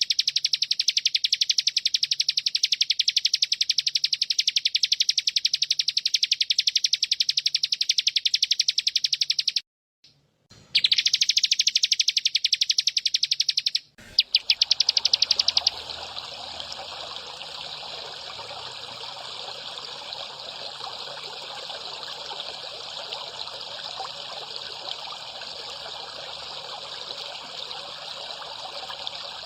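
Bren cicada buzzing with a rapid, even pulse. It cuts out briefly twice, then stops about 16 seconds in, when a steady trickle of running water takes over.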